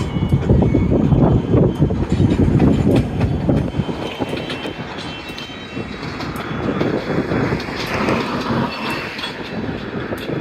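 Freight train cars rolling past, their wheels clattering over rail joints with a heavy rumble and faint high squealing at times.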